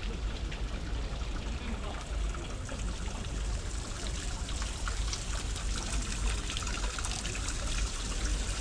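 Hot spring water trickling and splashing steadily, with many small drips and splashes.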